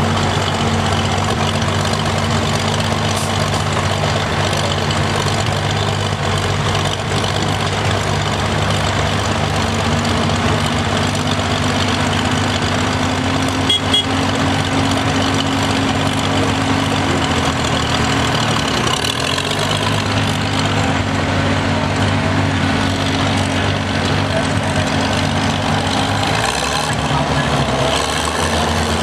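Engine running steadily at low speed, its pitch shifting about ten seconds in and again near twenty seconds.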